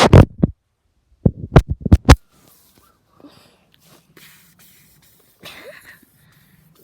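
Loud puffs of air hitting the microphone: one right at the start, then a quick run of about five short puffs a little over a second in.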